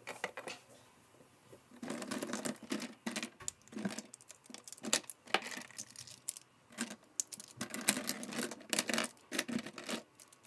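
Irregular tapping, clicking and rustling of small objects being handled on a desk, starting about two seconds in.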